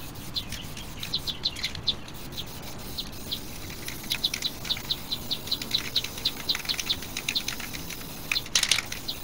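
A small bird chirping over and over, about three to four short chirps a second, with a brief hiss from an aerosol spray-paint can near the end.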